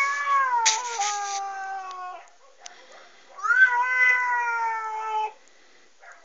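An angry cat yowling, played back from a YouTube video: two long, drawn-out yowls. The first is already under way and falls in pitch, ending about two seconds in. The second begins about three seconds in and lasts about two seconds.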